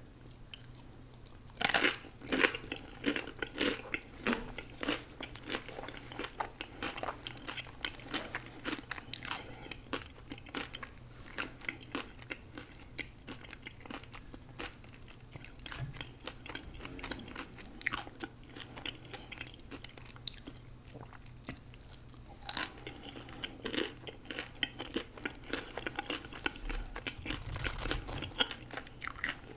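Close-miked eating: a loud crunchy bite about two seconds in, then continuous chewing with many small crunches.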